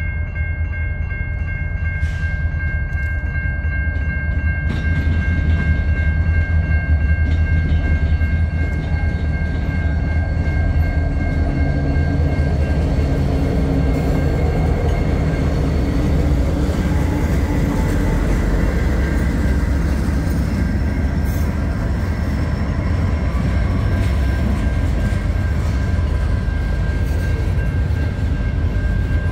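CN freight train with diesel locomotives passing: a heavy, steady low rumble that builds over the first several seconds, with a steady high-pitched ringing tone above it throughout.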